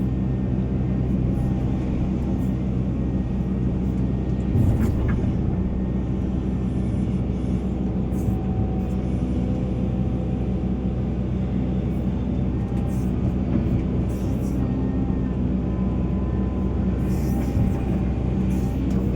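Volvo EC480 excavator's diesel engine running steadily while working, with a single knock about five seconds in.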